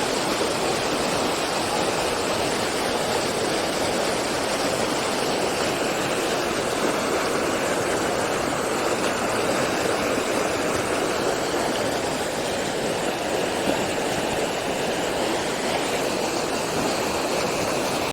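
Rain-swollen stream rushing steadily, the full flow of water that comes after heavy rain.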